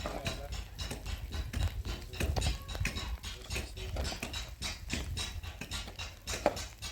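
Irregular clicks and knocks of building work, with one sharper knock about six and a half seconds in, over a low rumble.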